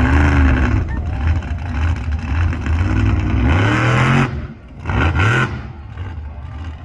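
Monster truck engine revving loud and low, the pitch climbing about three seconds in before cutting off sharply, followed by a short blip of throttle and a lower run.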